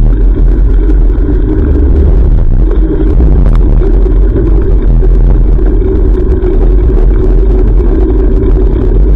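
Loud, steady low rumble of wind and road noise on a bicycle-mounted action camera while riding.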